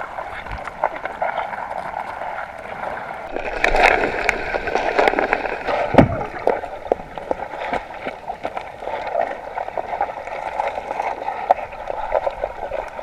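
Stream water rushing and gurgling, heard muffled from underwater through a GoPro's waterproof housing, with scattered small clicks and one louder knock about six seconds in.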